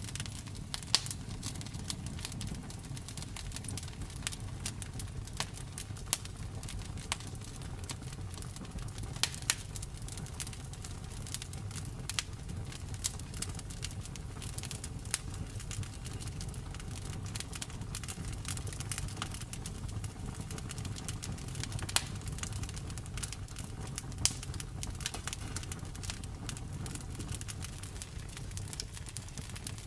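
Wood fire crackling, with sharp irregular pops and snaps over a low, steady rumble of burning.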